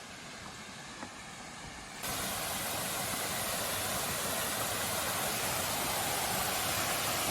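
Steady rushing water of a small waterfall. It is a faint hiss at first and turns suddenly much louder about two seconds in.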